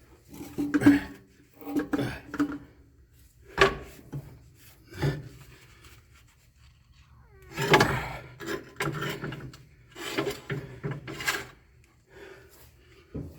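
Heavy electric motor being shifted and slid into position on a lathe's motor mounting plate, giving irregular scrapes and knocks. The sharpest knock comes about three and a half seconds in, and a busier run of scraping follows near the middle.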